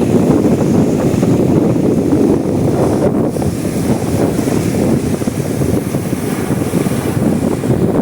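Strong wind buffeting the microphone over sea waves, a loud, steady rumbling rush with no breaks.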